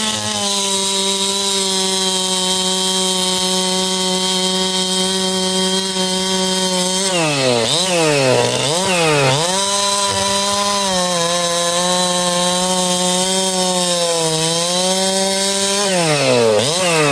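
Ported Husqvarna 371/372 two-stroke chainsaw, with a pop-up piston and base gasket delete, running flat out as it cuts through wood. Its revs drop and climb back twice about seven seconds in, and again near the end. The saw is still being broken in.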